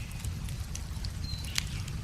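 Wood fire crackling with scattered sharp pops, one louder pop near the end, over a steady low rumble of running river water. A brief high bird note sounds just before the loud pop.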